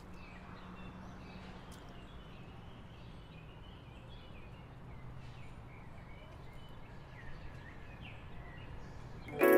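Quiet outdoor ambience: scattered short bird chirps over a steady low hum. Music comes in suddenly at the very end.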